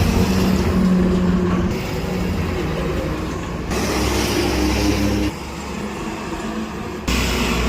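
Road vehicle engines running with traffic noise, the sound changing abruptly every couple of seconds as one short clip cuts to the next.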